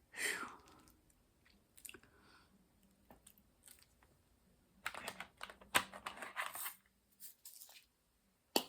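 Light clicks, taps and crinkling of small objects being handled, sparse at first and gathering into a busier cluster about five to seven seconds in, with one sharp click at the end.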